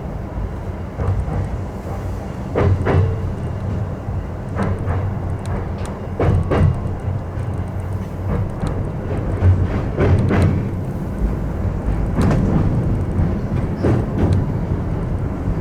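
Electric commuter train running on the rails, a steady low rumble of wheels and running gear, with sharp clicks and knocks scattered throughout as the wheels pass over rail joints and points.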